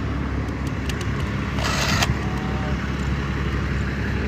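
A motor vehicle's engine idling steadily, with a short hiss about a second and a half in.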